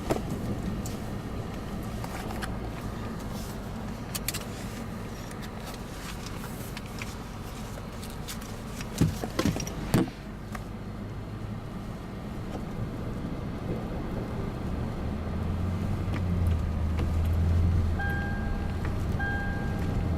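A vehicle engine running steadily, its low hum growing louder in the second half, with a few sharp knocks about nine to ten seconds in. Near the end an electronic beep starts, repeating about once a second.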